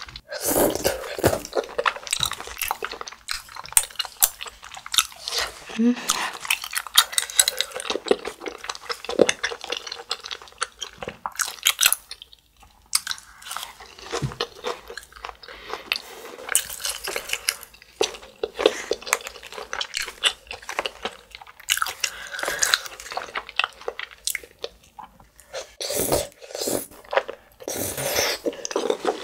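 Close-miked chewing and wet mouth smacking of someone eating rosé tteokbokki rice cakes in sauce, with many short clicks and smacks and a short pause about halfway through.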